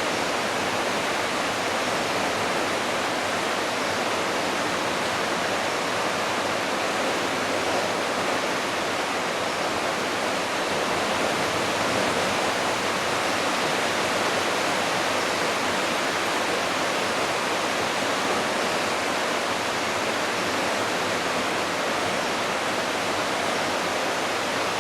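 Steady rushing of the rain-swollen Smith River running high, a constant even roar of fast water.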